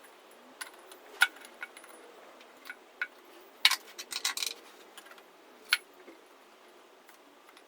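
Scattered sharp metallic clinks and taps of small metal parts and hand tools being handled, with a quick run of clinks around the middle.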